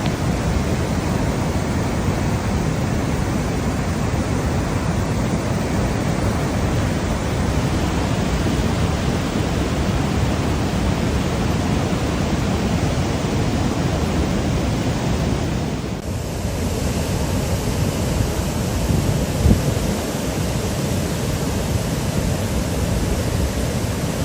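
Swollen floodwater of the Guadalupe River rushing steadily, with no pauses. About two-thirds of the way through, the rush changes abruptly to a slightly duller, otherwise similar steady rush.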